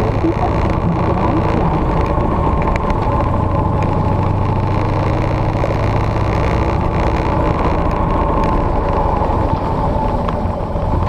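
Victory motorcycle's V-twin engine running steadily at cruising speed, with wind rushing past.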